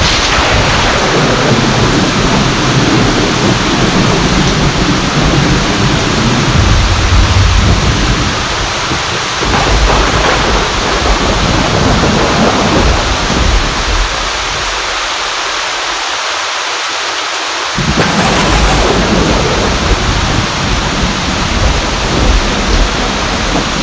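Heavy rain falling steadily, with rolling thunder rumbling through the first half. The rumble drops away for a few seconds and returns suddenly about eighteen seconds in.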